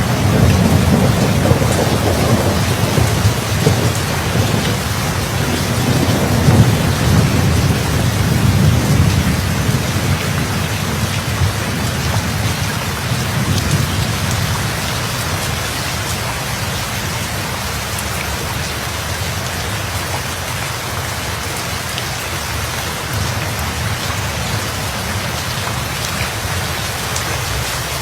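Steady rain falling hard, with a long low rumble of thunder that swells in the first few seconds and dies away about halfway through, leaving the rain alone.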